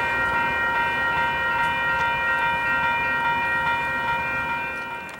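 Freight train passing out of sight: a steady, held high-pitched ringing tone over a low rumble, fading out near the end.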